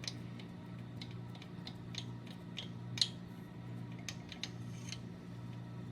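Faint, irregular small clicks and ticks of a measuring tool being worked against a machined metal block, one a little louder about three seconds in, over a steady low hum.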